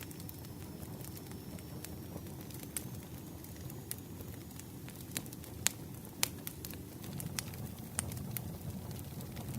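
Campfire burning: a steady low rumble of flames with scattered sharp crackles and pops of burning wood, two of them louder a little past the middle.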